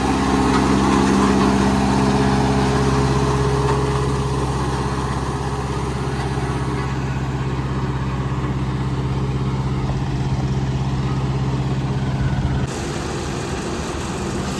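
Engine of heavy road-construction machinery running steadily with a low, even hum. Near the end the sound drops and changes abruptly.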